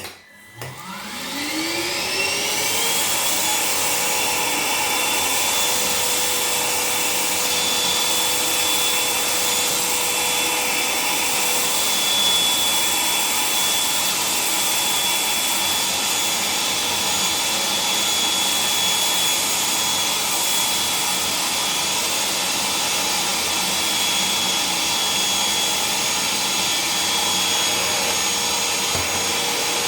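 Parkside PWDA 20 Li A2 cordless wet and dry vacuum cleaner switched on, its battery motor whining up to speed over about two seconds, then running steadily with a loud rush of suction air.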